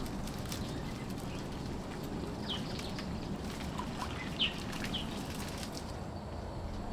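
Outdoor ambience: a steady low background noise with a few short, high bird chirps scattered through it, the clearest about two and a half seconds in and again around four and a half and five seconds in.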